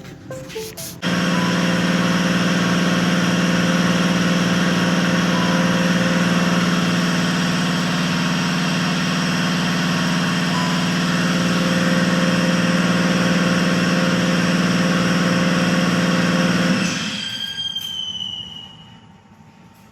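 A machine driven by an electric motor starts abruptly about a second in and runs steadily with a loud hum and whine. Near the end it shuts off and spins down, its whine falling in pitch as it fades.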